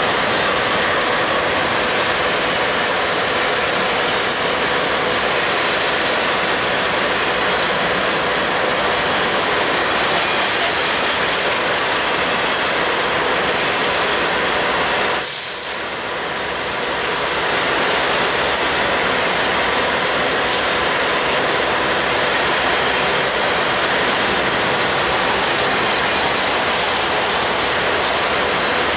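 Double-stack intermodal freight train passing: a loud, steady rush of steel wheels on rail and rattling stack cars, with a brief drop in level about halfway through.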